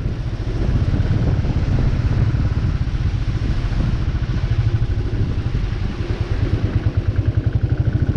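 Royal Enfield 350 single-cylinder motorcycle engine running at low revs, a steady run of firing pulses that grows more distinct near the end.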